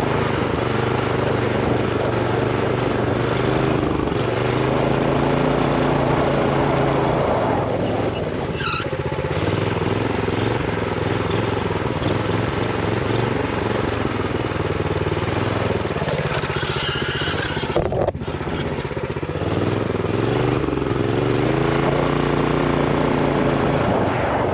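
Honda GX390 single-cylinder four-stroke engine on a minibike running under load while riding, its revs rising and easing off several times. The rpm is held down by a throttle stop screw.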